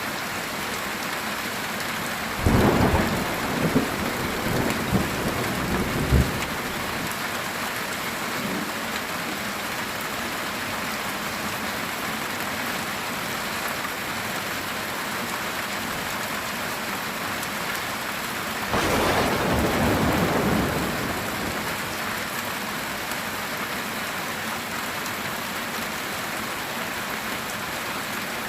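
Heavy rain falling steadily on a metal tin roof, with thunder twice: a sharp crack with a few seconds of rumbling about two and a half seconds in, and a smoother rumble of about two seconds about two-thirds of the way through.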